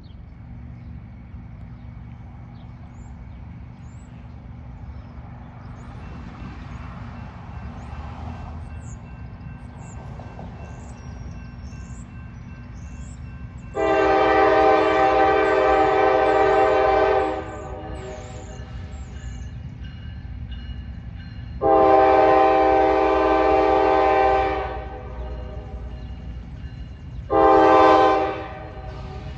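Freight locomotive air horn sounding three blasts, long, long and short, over a steady low rumble: the opening of the long-long-short-long grade-crossing signal.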